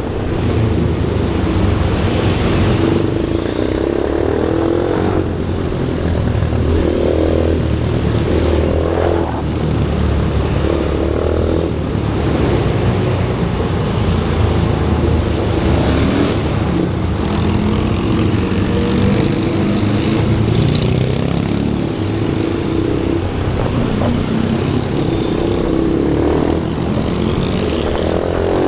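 Pit bike engines running and revving hard, with the pitch rising and falling as the bikes accelerate and shift. At times more than one engine can be heard at once.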